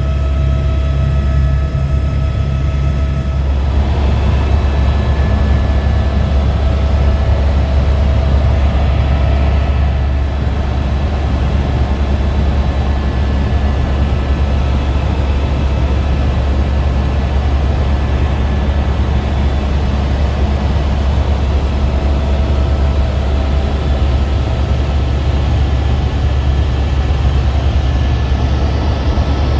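Helicopter turbine and rotor running, a loud steady low drone with a thin whine above it. About three and a half seconds in, the tone shifts and then holds steady.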